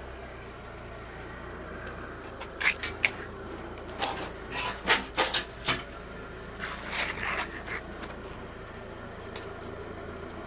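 Forklift engine running steadily, with a run of sharp metallic clanks and rattles in the middle as the strapped Big Cam Cummins engine block is lifted and moved.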